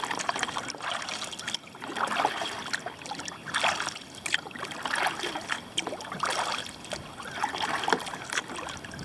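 Kayak paddle strokes: the blades dip and pull through the water with a splashing swish about once a second, as the kayaker paddles to catch up.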